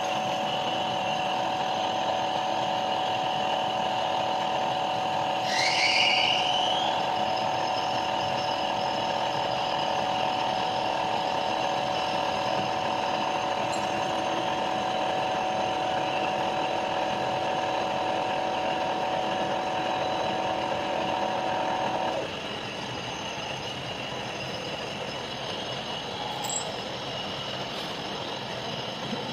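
Metalworking machine tool running steadily with a constant hum. About six seconds in there is a brief rising squeal. At about 22 seconds the humming tone cuts out and the machine sounds quieter from then on.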